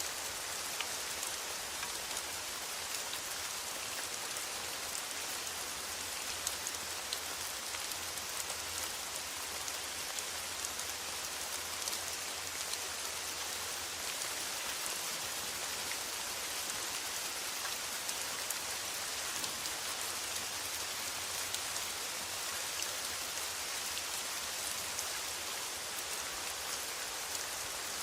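Steady rain on a metal roof: an even hiss with many small drop ticks.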